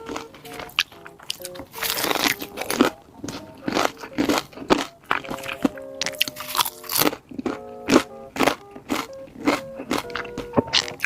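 Close-up crunching of crisp food being bitten and chewed, in repeated sharp crunches, over background music of short, steady melody notes.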